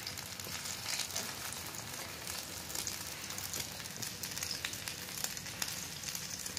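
Potato patties (aloo tikki) sizzling as they fry in hot ghee in a pan over a wood fire: a steady hiss dotted with many small pops and crackles.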